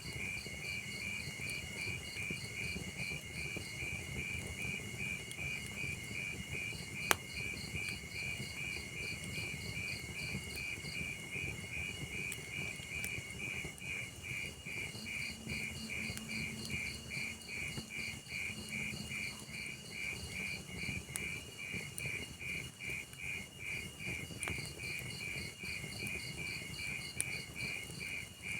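Cricket chirping steadily in a rapid, even pulse over a crackling wood fire in a fireplace, with one sharp pop about seven seconds in.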